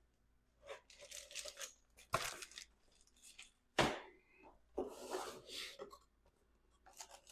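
Intermittent handling noises of hands working on the engine's cam and timing parts: short rustling scrapes with two sharp clicks, about two seconds in and near four seconds.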